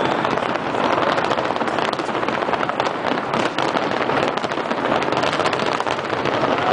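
Fireworks finale barrage: a dense, continuous rapid crackle and popping of many shells bursting at once, with no gaps.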